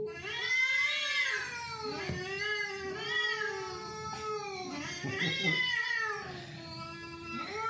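Cat meowing in a string of long, drawn-out calls, one after another with short gaps.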